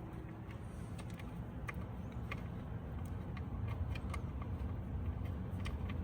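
Faint, irregular light clicks of hand-handled metal parts and tools under the hood, over a steady low rumble.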